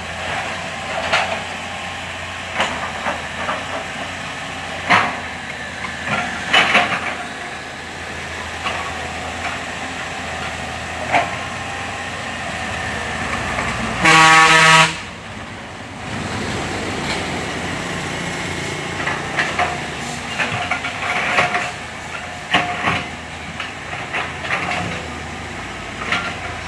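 Diesel earthmoving machinery running steadily, with scattered knocks and clanks while soil is dug and loaded into trucks. About halfway through, a loud vehicle horn sounds for about a second.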